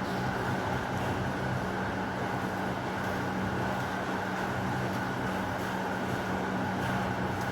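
Heavy rain falling steadily as an even wash of noise, with a steady low hum underneath and no thunderclap.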